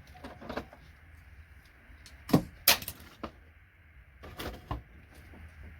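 Pliers snapping and cutting parts off a computer circuit board: a series of separate sharp clicks and cracks, the loudest two close together about two and a half seconds in.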